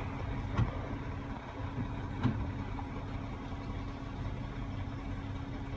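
Diesel engine of a CAT 323 excavator idling with a steady low hum, with two short knocks about half a second and two seconds in.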